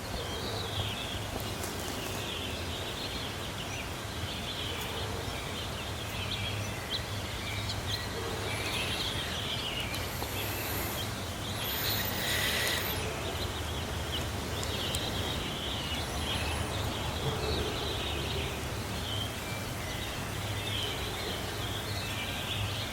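Outdoor ambience of small birds chirping on and off over a steady low hum, with a brief louder rush of noise about halfway through.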